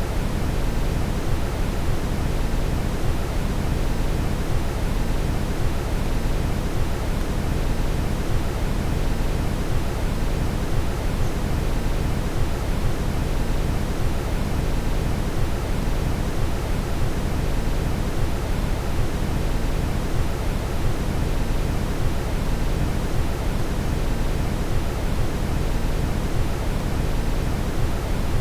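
Steady brown noise: an even, unchanging rushing hiss, heaviest in the low end.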